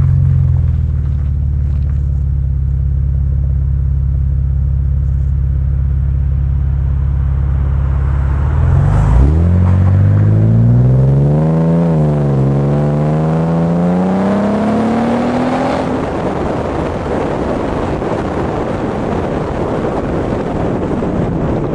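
Car exhaust heard from the boot lid: the engine idles steadily, then about nine seconds in the revs climb as the car pulls away hard. There is one upshift partway through, then the revs climb again, and after that wind and road noise at speed drown out the exhaust note.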